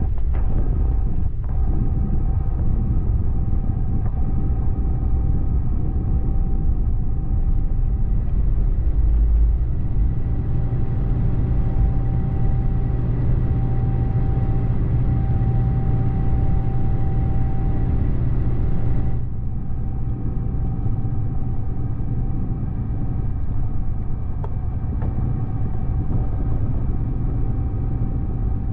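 Steady low vehicle rumble with a few faint steady tones over it. Its higher part drops away suddenly about two-thirds of the way through, leaving a duller rumble.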